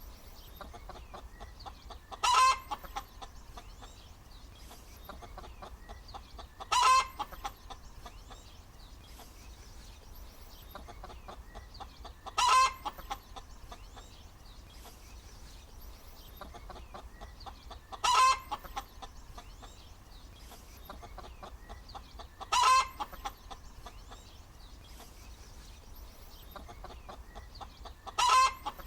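Hen cackling: six loud, short calls about five seconds apart, with softer clucking in between.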